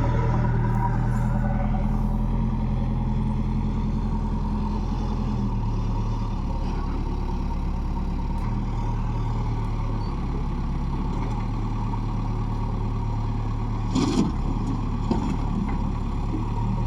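Diesel engine of heavy machinery running steadily, its speed shifting a couple of times, with a sharp clank about fourteen seconds in.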